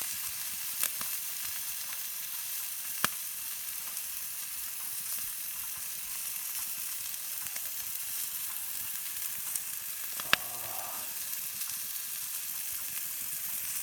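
Thick pork neck sizzling on a hot stone slab in a wood fire: a steady hiss broken by a few sharp pops.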